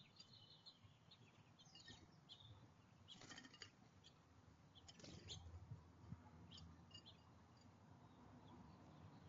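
Faint chirps of small songbirds at a bird feeder, with two short scratchy bursts about three and five seconds in.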